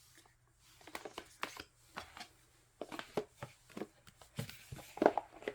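Handling of K-pop album packaging and photocards: scattered soft taps and rustles of card and paper, busier near the end.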